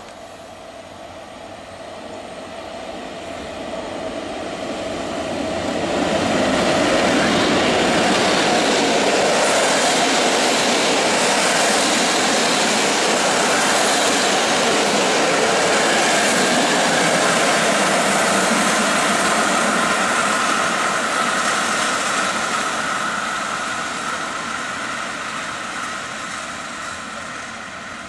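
Electric locomotive of the EU07 family hauling PKP Intercity passenger coaches past at speed. The noise of the train grows over about six seconds, stays loud and steady while the coaches go by, then fades as the train moves away.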